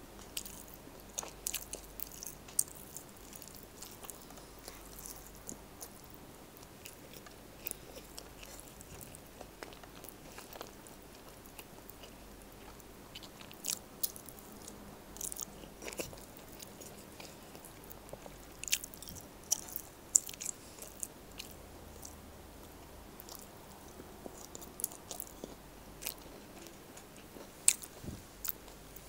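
Close-miked chewing and wet mouth sounds of someone eating rice, eggplant omelette and beef stew by hand, with many short sharp clicks and smacks scattered throughout.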